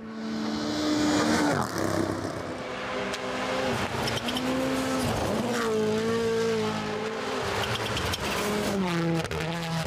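Rally car engine at full throttle, its pitch repeatedly climbing and dropping back as it works up and down the gears, over tyre noise on snow and ice. It starts abruptly.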